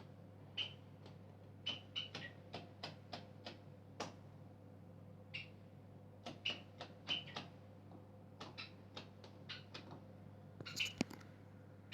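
Bosch Maxx 5 washing machine running with a faint low hum, overlaid by irregular short squeaks and clicks, roughly two a second.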